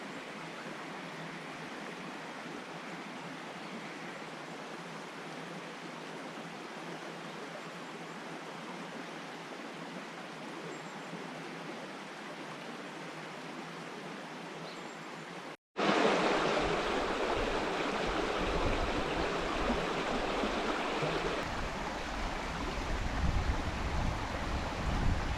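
Steady rushing of a flowing river. About 15 seconds in there is an abrupt cut, and after it a louder, deeper rushing noise.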